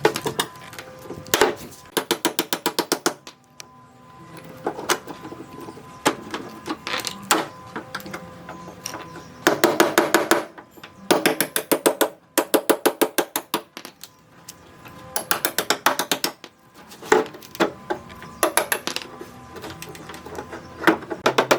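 Rapid clicking in repeated short bursts, about ten clicks a second, each burst lasting up to about a second and a half, over faint steady background music.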